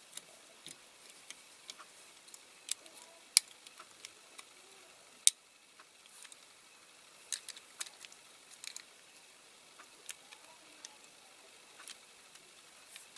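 Scattered small, sharp clicks and taps of a Corgi Whizzwheels Mercedes-Benz 350SL diecast toy car's parts being handled, as its doors' hinges are worked into their holes in the body. Two louder clicks come about three and five seconds in, and a quick run of clicks comes a little before halfway.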